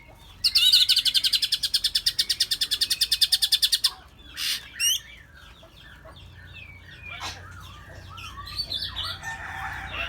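Songbirds calling: a loud, fast trill of about a dozen notes a second lasts about three and a half seconds, followed by scattered short chirps and whistles from several birds.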